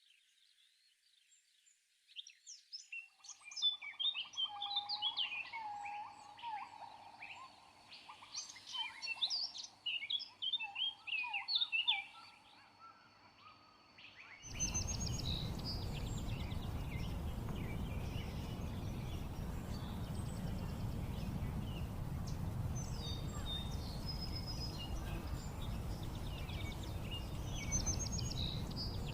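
Several birds singing and chirping, with quick high notes and some lower whistled calls. About halfway through it cuts abruptly to a steady low rushing noise, with faint bird chirps still above it.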